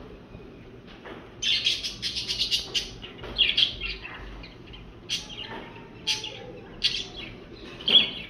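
Small birds chirping: a dense run of quick, high chirps for a couple of seconds, then single short chirps about once a second.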